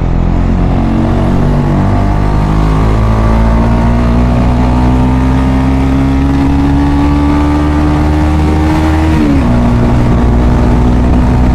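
KTM Duke 250 single-cylinder engine running under way, its note climbing slowly as the bike gathers speed, then dropping suddenly about nine seconds in and holding steady.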